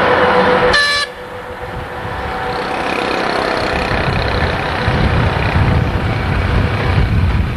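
A vehicle horn sounds for about a second and cuts off. A vehicle then runs with a low rumble that grows louder.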